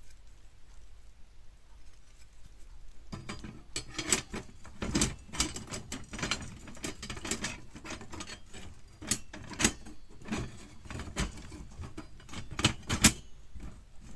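Metal parts of a fire pit being handled and fitted together: irregular light clicks, clinks and knocks starting about three seconds in, with the loudest knocks near the end.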